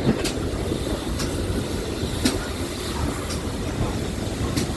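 Steam-hauled heritage train running along the line: a steady low rumble with a sharp click about once a second, the wheels passing over rail joints.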